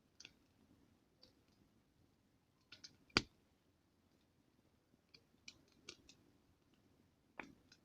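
Wood campfire crackling softly, with scattered sharp pops and snaps over a faint low murmur; the loudest pop comes about three seconds in, and another near the end.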